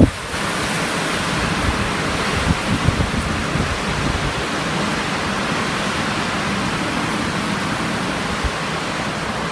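Strong blizzard wind blowing, a steady rushing hiss. A few low gusts buffet the microphone in the first three seconds.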